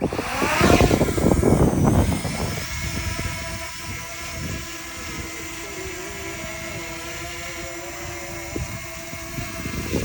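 DJI Mini 2 SE drone's motors and propellers spinning up with rising pitch, with loud wind gusts buffeting the microphone for the first two seconds. The motors then settle into a steady whine.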